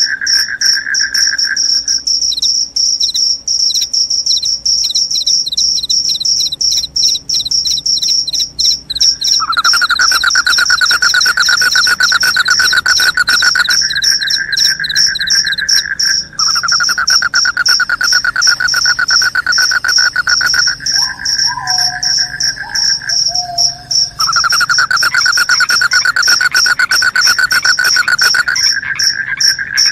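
Crickets chirping: a continuous high-pitched trill with a second, lower pulsing trill that starts and stops several times. A short warbling call comes in about 21 seconds in.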